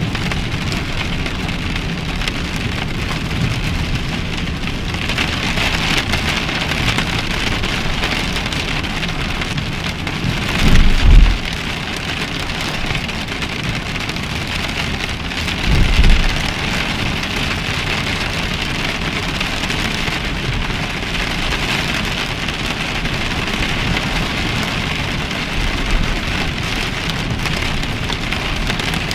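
Steady heavy rain pouring down. Two brief low booms stand out, about eleven and sixteen seconds in, the louder first.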